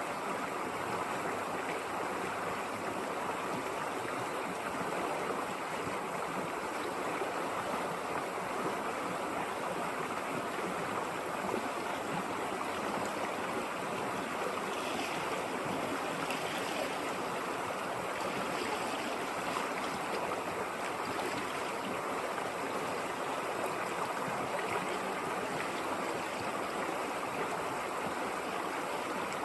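River water running steadily over a shallow stream bed, a continuous rushing and burbling.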